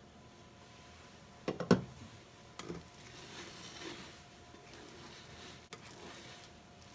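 Kitchen handling sounds: a quick pair of knocks as something is set down on a counter, a lighter knock about a second later, then soft rustling and a small click, over a faint steady hum.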